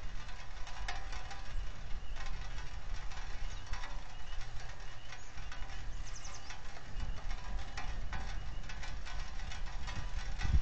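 Rain falling on the nest camera's housing and microphone, heard as many scattered ticks over a steady noise, with a low wind rumble on the microphone.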